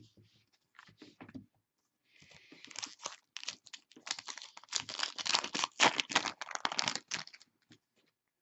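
A trading-card pack's foil wrapper being torn open and crinkled, with dense crackling for about five seconds after a few light clicks.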